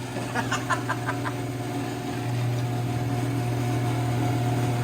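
Genie screw-drive garage door opener running, a steady motor hum that grows louder about two seconds in. A few short squeaks come in the first second.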